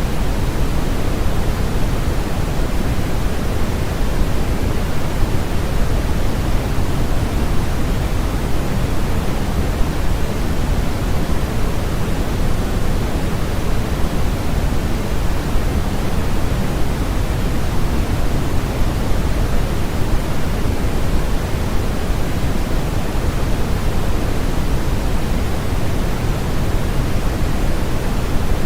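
Steady, unchanging synthetic noise, like soft static, played as a sleep and masking sound. It is heavier in the low end and softer in the highs, closer to pink noise than flat white noise.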